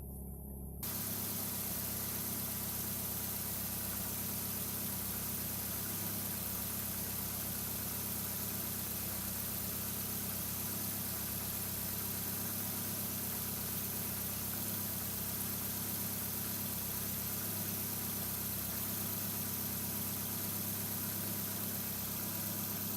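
Ford Galaxy 2.3i (Y5B) inline-four petrol engine idling steadily at an even pitch, getting louder about a second in.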